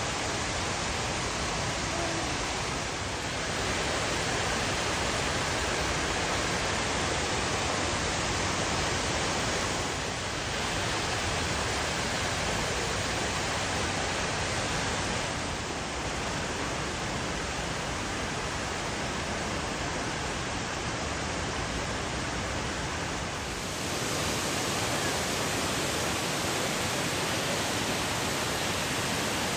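A waterfall's steady rush of falling water, an even roar of noise with no pitch to it, dipping briefly three or four times.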